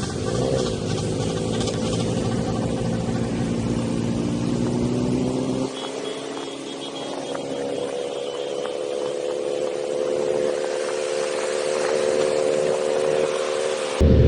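Motorcycle engine running under way, its pitch climbing slowly as it gains speed. About six seconds in, the sound changes abruptly, then the engine holds a steadier, slowly rising pitch.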